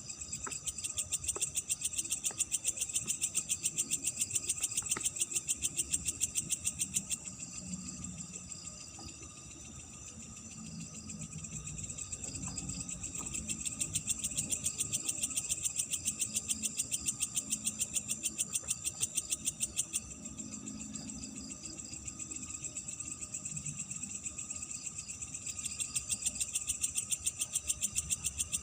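Night insects chirping in a fast, even pulse, in bouts of several seconds that stop and start again, over a steady thin insect tone, with scattered low calls underneath.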